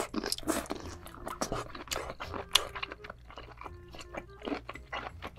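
Chewing and biting on a sauce-glazed octopus tentacle: many short mouth clicks, over soft background music.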